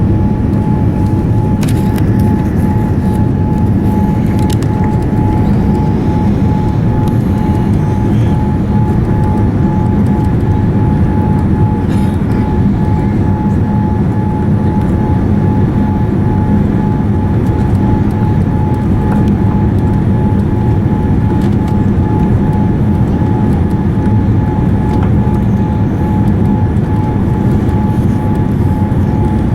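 Steady cabin noise inside a Boeing 787-9 airliner: a continuous low rumble with a steady high hum running through it.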